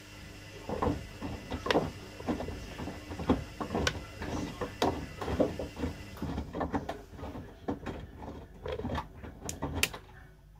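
A run of irregular mechanical clicks and knocks, some sharp, that stops about ten seconds in.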